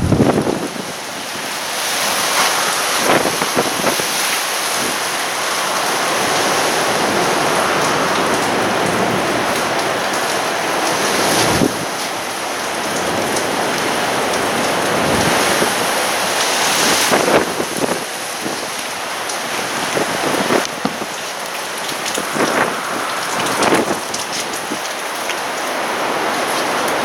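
Spring wind storm: a steady hiss of rain with gusts of wind that swell briefly several times.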